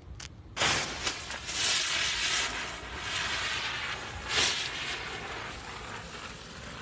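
Two ground-spinner fireworks burning together, a loud fizzing hiss of sparks that starts abruptly about half a second in and keeps going, swelling and fading.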